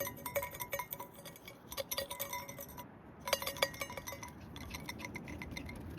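Light clinking of small hard objects, glass or metal, in rapid irregular clusters. Each clink leaves a brief ringing tone at the same few pitches, and there is a short pause about three seconds in.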